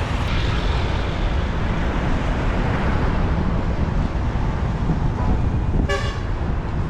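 Steady rumble of wind and engine from riding a motorbike through city traffic, with a vehicle horn giving one short beep near the end.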